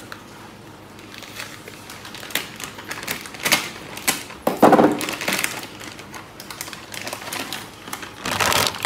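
Plastic bag of pickled Laba garlic crinkling and rustling in irregular clicks as it is handled and cut open with a knife, with a louder rustle near the end as the bag is lifted.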